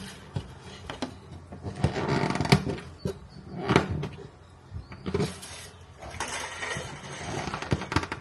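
Workbench handling sounds: irregular light knocks and taps mixed with short bursts of scraping or rubbing.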